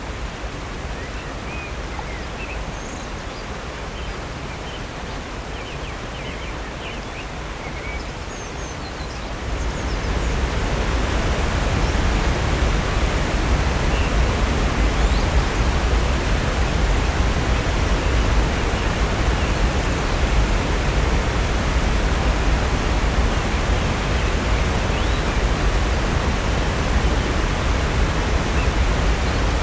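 Rushing water of Upper North Falls and Silver Creek: a steady, even rush that steps up louder and deeper about a third of the way through. Faint, scattered bird chirps show over the water before the step.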